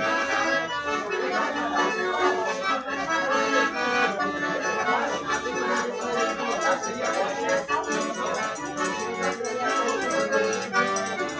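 Accordion-led traditional music with a steady percussion rhythm.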